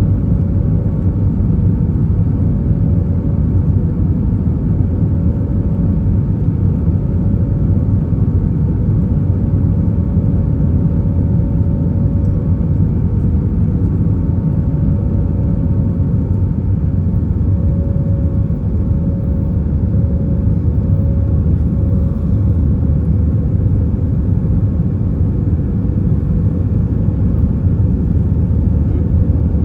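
Airbus A320's IAE V2500 engines and airflow heard from inside the cabin during the climb after take-off: a loud, steady low rumble with a faint steady hum on top.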